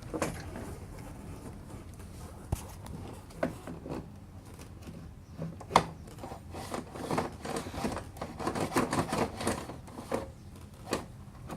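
Hand-work noises on a self-propelled lawn mower's rear wheel assembly: scattered clicks, knocks and scrapes of parts being handled. The sharpest knock comes about halfway through, and the handling gets busier after that.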